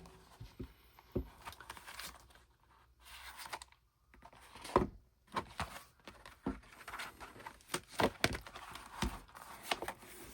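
Handling of a K-pop album's paper and plastic contents: rustling and crinkling broken by scattered light clicks and taps, with a brief quiet spell a few seconds in.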